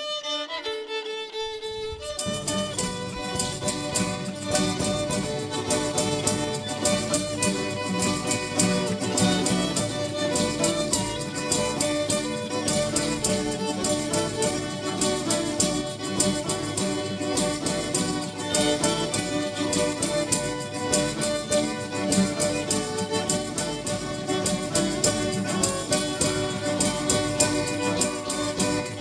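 Instrumental band music: a short melodic lead-in, then the full band comes in about two seconds in with a steady beat and a melody carried on top.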